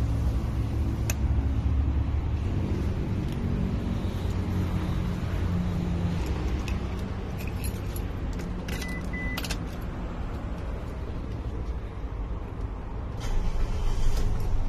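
Car engine running with a steady low hum. About nine seconds in, keys jangle at the ignition with a short high beep, and from about 13 s the engine gets louder.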